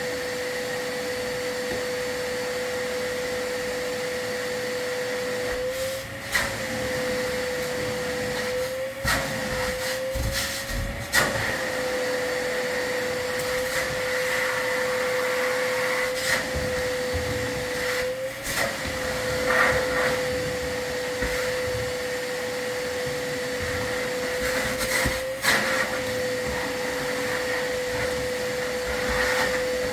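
A vacuum running steadily with a constant whine and hiss, its pitch wavering briefly several times, with scattered knocks and clatters over it.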